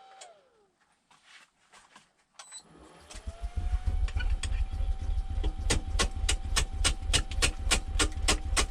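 Wood lathe spinning up with a rising whine about three seconds in, then a steady low rumble as the out-of-balance poplar log turns. From about halfway, a bowl gouge strikes the log's high spot about four times a second, once per turn, because the log is still out of round.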